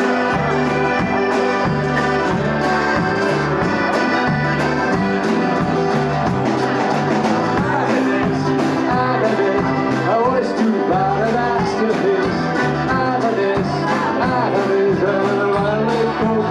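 Dialect rock band playing a break between verses of the song: drums and bass keep a steady beat under guitar, and a wavering lead melody comes forward about halfway through.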